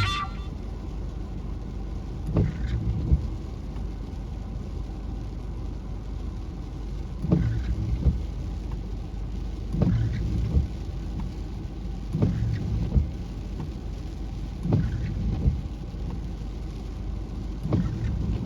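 Ocean surf: a steady low rumble of the sea, with a wave breaking and washing in every few seconds.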